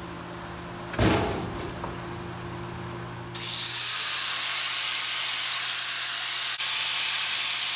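A power tool cuts through a steel front coil spring to lower the car. It starts abruptly about three seconds in with a faint rising whine, then runs as a loud, steady, high-pitched hiss. Before it there is a low hum and a single knock about a second in.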